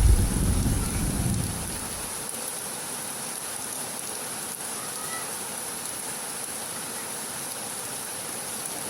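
Heavy tropical rain falling steadily as an even hiss, with a low rumble of thunder dying away over the first couple of seconds.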